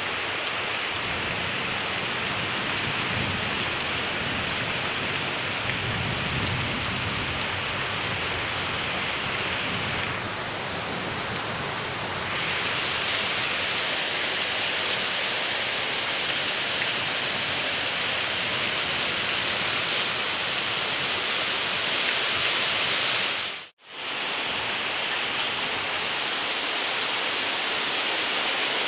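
Rain falling steadily, a dense even hiss. The sound cuts out for a moment about two-thirds of the way through.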